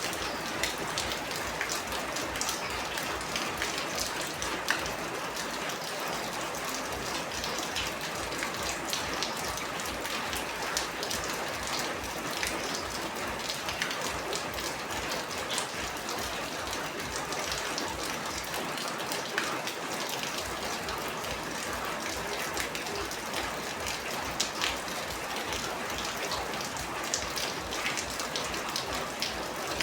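Steady rain falling: a continuous hiss with many individual drops hitting a surface as quick, sharp ticks all the way through.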